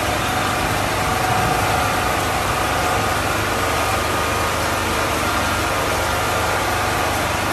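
Car engines idling in slow-moving traffic, a steady low hum under a constant hiss of rain and water.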